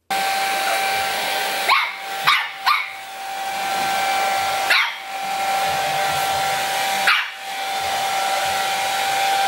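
Hand-held hair dryer running with a steady blowing whine while a small long-haired dog barks at it, about five short barks: three close together around two seconds in, then one near the middle and one later.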